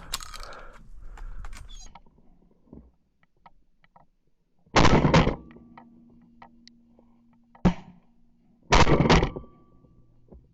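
Shotgun shots: one just before halfway, a sharp single one about three seconds later, and a last one, doubled, about a second after that.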